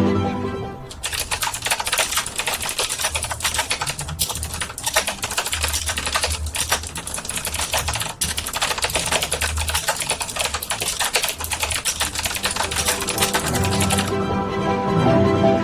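Fast, continuous typing on a computer keyboard: dense, overlapping key clicks with no pauses longer than a moment, over a faint low bass line. Violin music drops away about a second in and comes back near the end.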